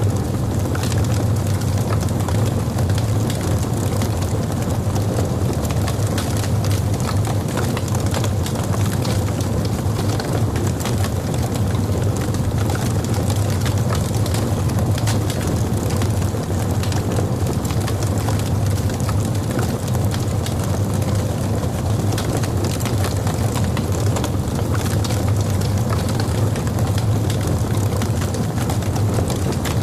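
Log fire burning in a fireplace: a steady low rumble of flames with frequent small crackles and pops throughout.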